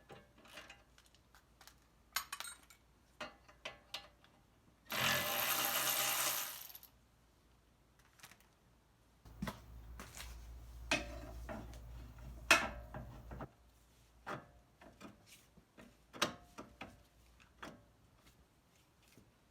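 Metal tools clicking and clanking on car suspension hardware while bolts are worked loose. About five seconds in there is a loud two-second burst of dense noise, and a low rumble under more clanks from about nine to thirteen seconds.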